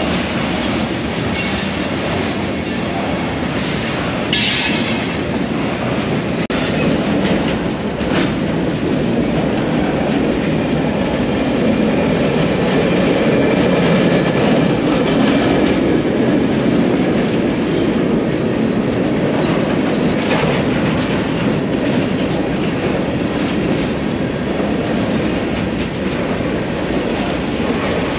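Freight train cars rolling past, a loud steady rumble of steel wheels on the rails. Short sharp high-pitched squeaks and clicks from the wheels come in the first eight seconds or so.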